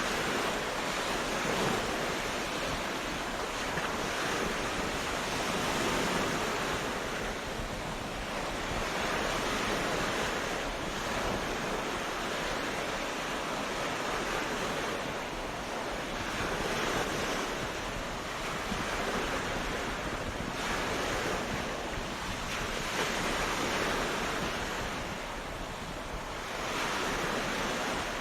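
Ocean waves washing onto a beach: a steady rush of surf that swells and eases every few seconds.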